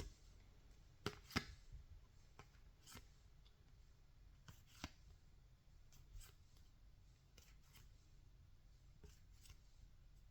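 Faint, scattered clicks and light rubbing of a pack of Topps baseball cards being opened and the cards handled, with the two sharpest clicks about a second in.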